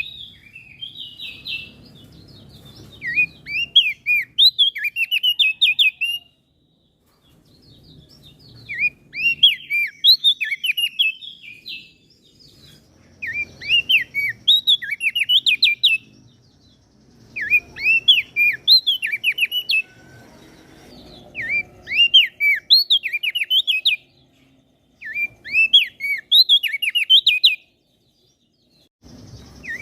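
A small songbird singing in repeated bursts of quick, high chirping notes, each phrase lasting two to four seconds, with short pauses between them, about seven times.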